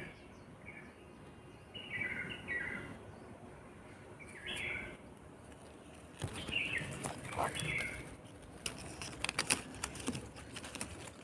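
Baby birds chirping: short, high chirps in little clusters of two or three notes every second or two. Scattered sharp clicks and rustling join in from about halfway through.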